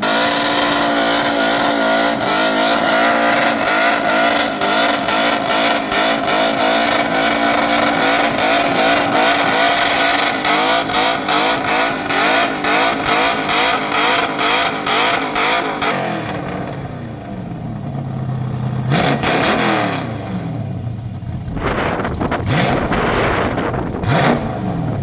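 V8 muscle car engine held at high revs during a burnout, the sound pulsing rapidly and evenly for about sixteen seconds. Then the revs drop away, and the engine blips and falls a few times near the end.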